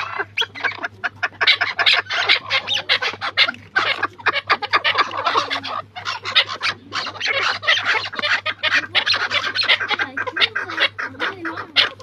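Partridges calling in a continuous, rapid chatter of short repeated notes.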